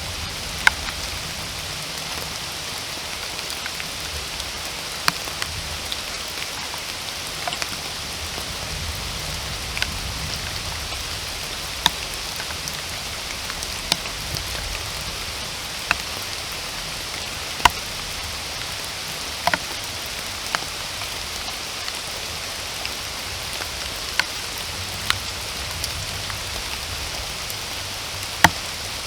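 Steady rain falling as an even hiss, with single louder drops landing close by every second or two at uneven intervals.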